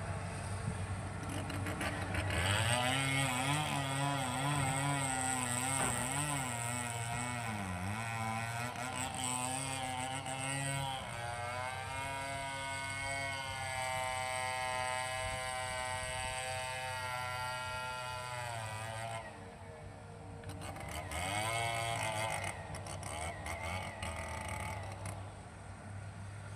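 Hitachi excavator's diesel engine running, its pitch wavering and rising as it works under load, then holding a steady higher whine for several seconds before dropping back about two-thirds of the way through. A few sharp knocks come near the start and again near the end.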